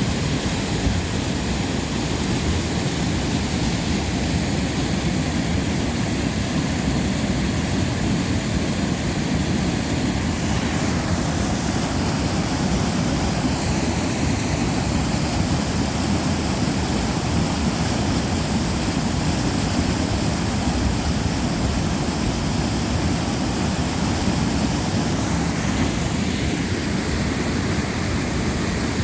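Waterfall and river water rushing with a steady, unbroken roar.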